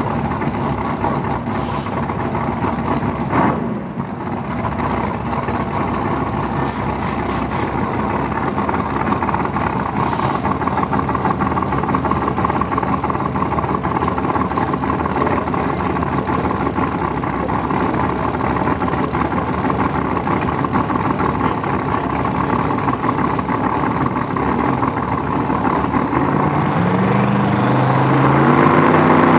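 Drag race car engines running with a steady rumble. Near the end, one engine's pitch climbs in steps as it revs up.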